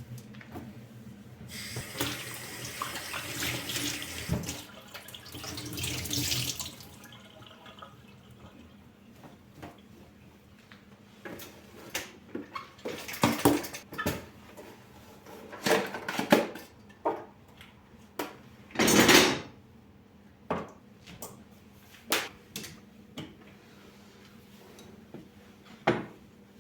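A tap running into a sink for about five seconds, then a series of short sharp clinks and knocks, with another brief rush of water about two-thirds of the way through.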